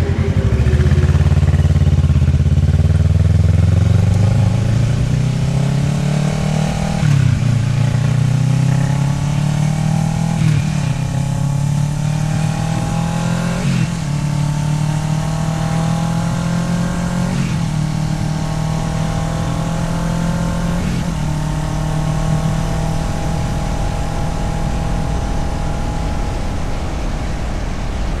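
Kawasaki Ninja 650R's parallel-twin engine pulling away and shifting up through the gears. The engine note climbs and drops back at each of about five upshifts, then holds steady at cruising speed.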